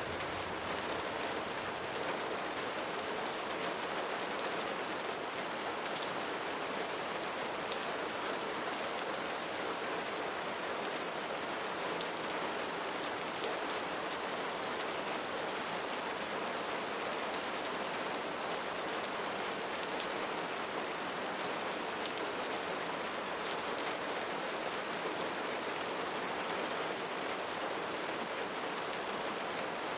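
Steady rain falling on leaves, an even hiss with fine drop patter.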